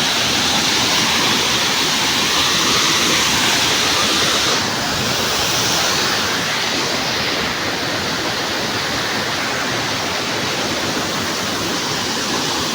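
Waterfall's falling water rushing in a loud, steady roar, easing a little about four and a half seconds in.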